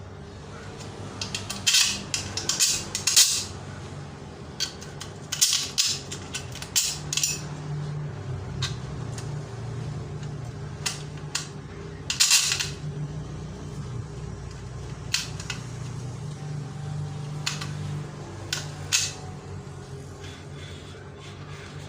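Small metal parts clinking and tapping at irregular moments, with a cluster of sharp clicks around the second to third second and again near the twelfth second, over a steady low hum.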